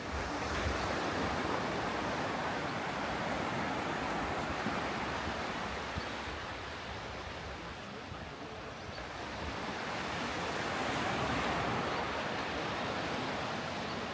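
Sea surf washing onto a sandy beach, a steady hiss of breaking waves that swells, eases and swells again.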